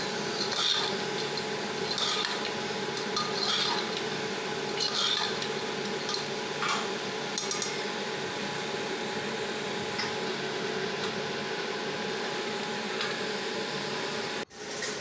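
A metal spoon stirring and scraping through meat and potatoes in a pot, in soft strokes every second or so, over a steady hum. The sound drops out briefly near the end.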